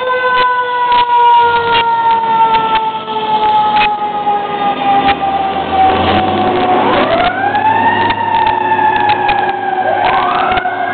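Fire engine siren wailing: the pitch rises quickly, then slides slowly down, three times over, with the truck's engine hum underneath.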